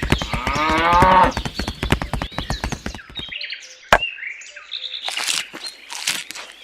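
Birds chirping, mixed with a fast run of clicks in the first three seconds and a single sharp click about four seconds in.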